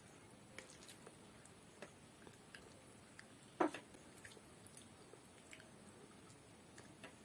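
Close-up eating sounds: chewing a mouthful of rice, with a scatter of soft wet clicks from the mouth and fingers and one louder click about three and a half seconds in.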